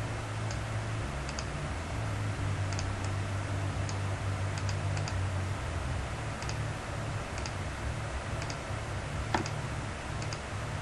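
Light, irregular clicking at a computer while a model is built in design software, roughly one or two clicks a second with one louder click about nine seconds in, over a steady low hum.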